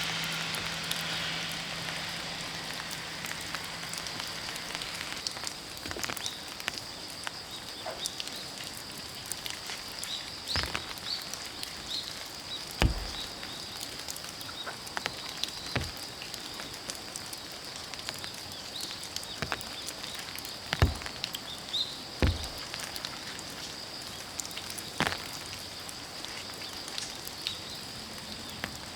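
Steady rain with scattered drips ticking and a few heavier drops knocking on the roof of a kei van. A low hum stops about five seconds in.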